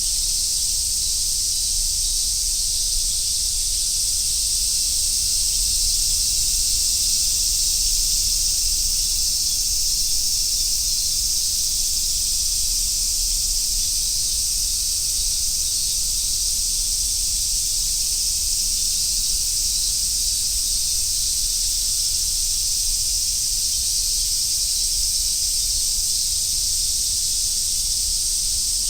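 Chorus of cicadas, among them large brown cicadas (aburazemi), making a steady, dense, high-pitched hiss that does not break or pulse.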